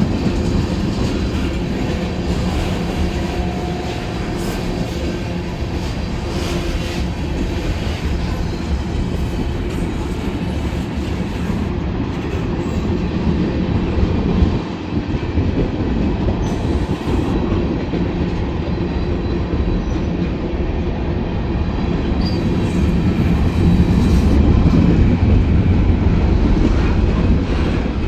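Norfolk Southern mixed freight train rolling past, a steady loud rumble of freight cars with wheels clicking over the rail joints, growing louder near the end.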